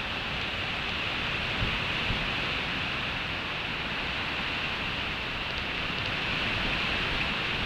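Steady hiss of rain falling, with two soft low thumps about two seconds in.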